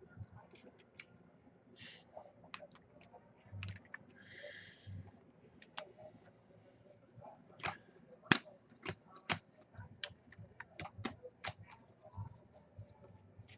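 Football trading cards being handled at a table: scattered sharp clicks and taps as cards are flipped and stacked, with a brief rustle about four seconds in and a run of louder clicks past the middle.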